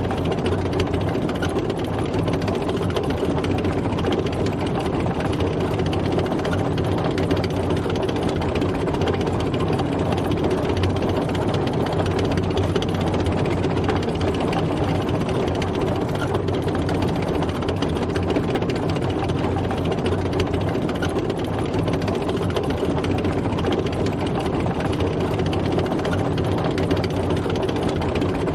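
A tank driving: its heavy engine runs steadily at an even pace, with a dense rattle over the engine tone and no change in speed or load.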